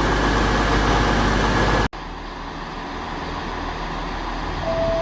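Loud, steady vehicle engine noise with a low hum, cut off abruptly about two seconds in. Quieter station background noise follows, and near the end the first note of a station public-address chime sounds.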